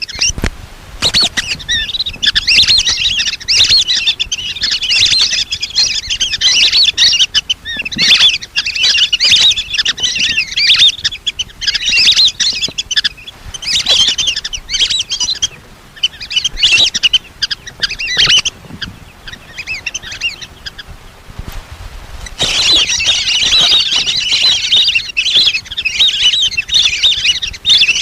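A flock of lesser whistling ducks calling: dense, high chirping whistles in bouts that break off briefly a little after the middle, then resume and carry on without a pause.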